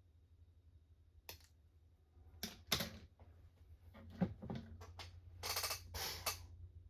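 Small plastic model-kit parts being handled: scattered sharp clicks and taps, a quick run of them about four seconds in, then about a second of rustling.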